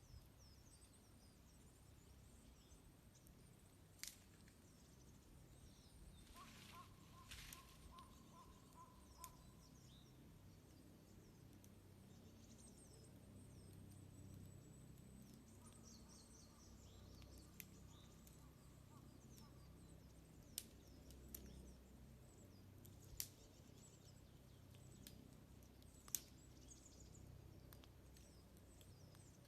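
Small birds chirping and calling in many short high notes, with a wood fire crackling in occasional sharp pops.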